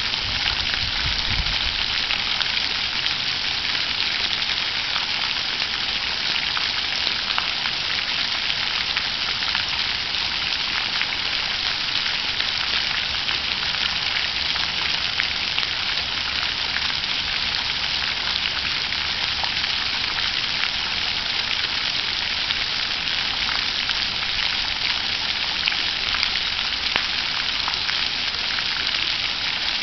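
Water fountain splashing steadily into its basin, an even hiss of falling water.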